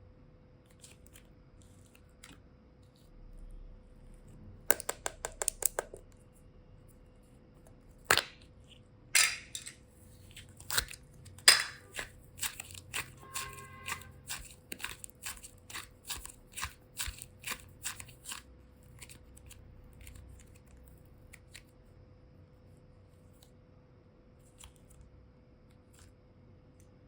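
Sharp clicks and crackles of handling, with a quick cluster about five seconds in, a few loud single clicks, then a run at roughly three a second that thins out. A faint steady hum sits underneath.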